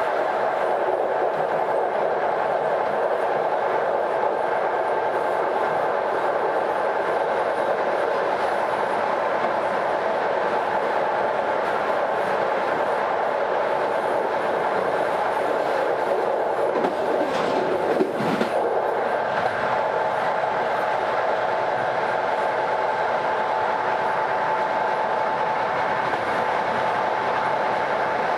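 Train wheels running on the rails with a steady singing tone over the running noise: the singing railway track. The uploader puts it down to causes that could vary, such as rail heads worn differently than elsewhere or a slightly narrower gauge making the wheel tyres rub harder on the rails. About two-thirds of the way through, a short rattle with a few sweeping tones breaks in.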